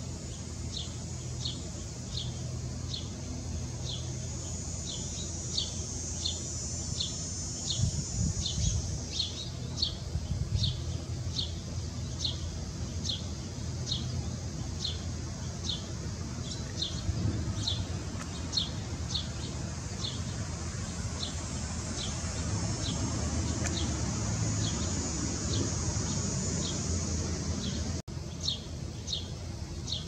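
A small bird chirping over and over, short high chirps at a steady pace of roughly two a second, with a low rumble in the background.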